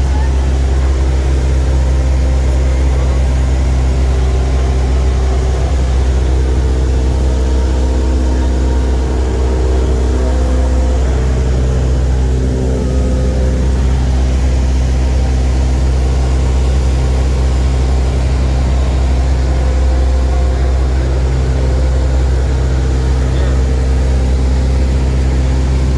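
Small propeller airplane's piston engine running with a steady, loud low drone.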